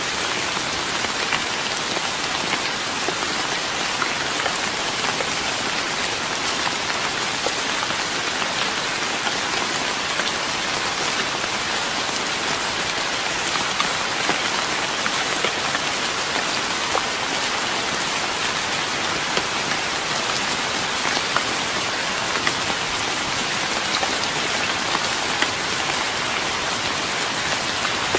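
Steady rain falling on a wooden deck, an even hiss with many small drop taps scattered through it.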